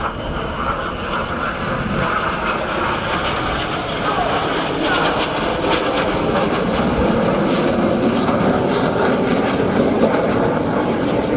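Jet engines of the Red Arrows' BAE Hawk T1 aircraft passing in formation, a loud rushing noise that builds up over the first few seconds and stays at its loudest toward the end.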